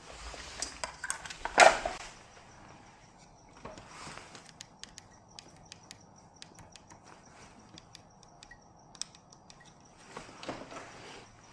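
Handling noise: a loud knock about two seconds in, then a run of light, sharp clicks and small knocks, with brief rustling near the end. A faint, steady high-pitched tone runs underneath.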